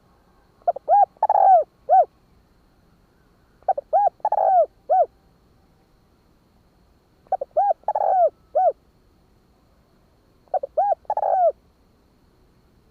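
Spotted dove cooing its song four times, about every three seconds: each phrase is a few quick short coos, a longer coo, then one short closing note. This is the call-and-challenge song played to draw wild doves to a decoy.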